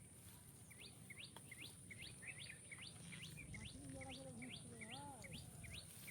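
A small bird calling a quick series of short, sharply rising chirps, about three a second, starting about a second in. The calls are faint.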